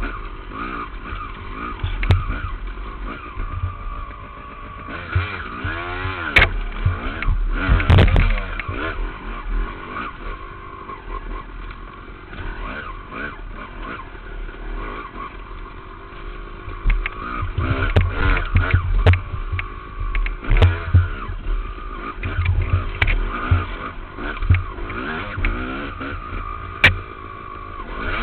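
Dirt bike engine being ridden hard, the revs rising and falling constantly with throttle and gear changes, with a few sharp knocks from the bike over rough ground.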